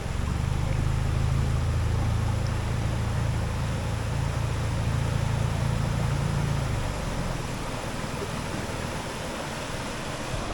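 Dinghy outboard motor running steadily, its low hum dropping away about seven seconds in, over a steady rushing of water and wind.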